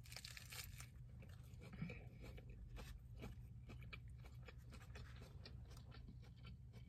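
Faint mouth sounds of a person biting into and chewing a burger with lettuce: soft crunches and small wet clicks scattered throughout, over a low steady hum.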